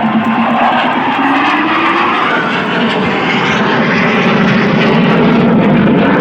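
BAE Hawk jet trainers flying past low, a loud, continuous jet roar whose pitch slides during the first seconds and that grows louder toward the end.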